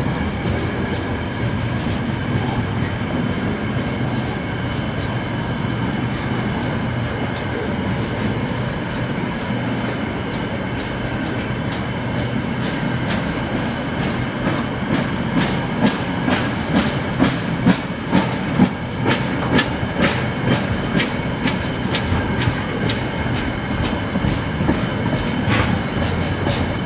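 Container freight train rolling past close by: a steady rumble and hiss of steel wheels on rail, with a faint steady high whine. From about halfway through, a regular clickety-clack of wheels over the rail joints sets in, about two clicks a second.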